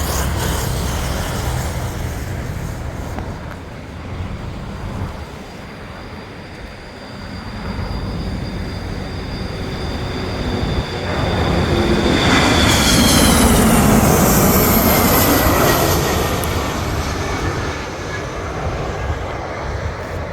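Boeing KC-135 Stratotanker's CFM56 (F108) turbofans on landing approach, passing close by: a steady jet roar with a high turbine whine. A little past the middle the roar swells to its loudest and the whine slides down in pitch as the aircraft goes by.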